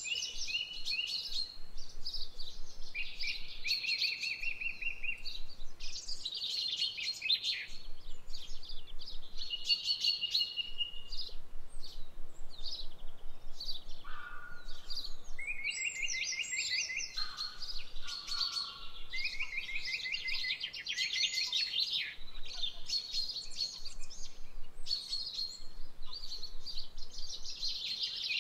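Songbirds singing: a steady string of short, rapid trills and chirps, one after another, with a few lower notes in the middle.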